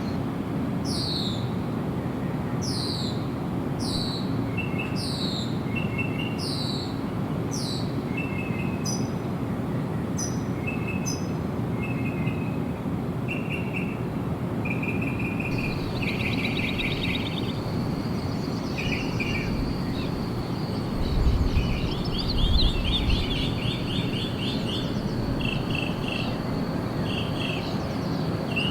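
Wild birds calling: one repeats a high whistle that slides downward, about once a second, while others give short chirps and later quick trills. A steady high buzz sets in about halfway through, over a constant background hiss, with a brief low rumble a little later.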